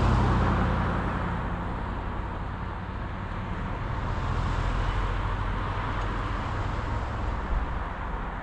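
Road noise of a car driving: a steady low engine and tyre drone with rushing noise that is loudest at the start, fades, and swells again about halfway through.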